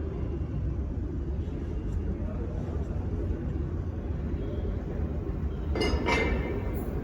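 New York City subway train running, a steady low rumble heard from inside the car, with a short higher-pitched sound about six seconds in.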